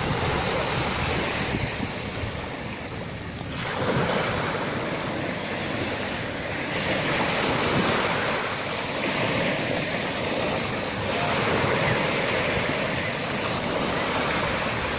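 Sea waves breaking and washing on the shore, the rush of surf swelling up about every four seconds.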